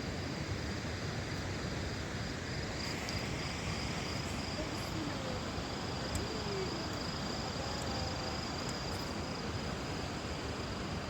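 Crickets chirping in a steady, fast pulsing trill over an even background hiss, with a few faint, short wavering calls in the distance about halfway through.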